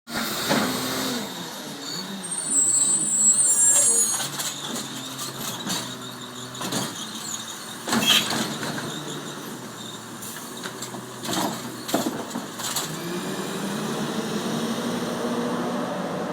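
Garbage truck running, with a high squeal lasting a couple of seconds about two seconds in. Several sharp knocks come around eight and twelve seconds in, and near the end the engine note rises slowly.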